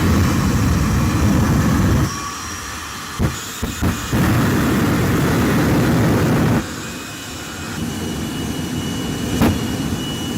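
A school bus's jet turbine engine running loud in two heavy stretches, each about two seconds long, dropping back in between to a quieter run with a faint steady high whine. A few short knocks come around three to four seconds in and again near the end.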